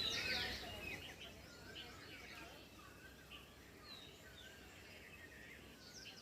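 Several small birds chirping and calling: a dense flurry of chirps in the first second, thinning to scattered calls and short warbling notes.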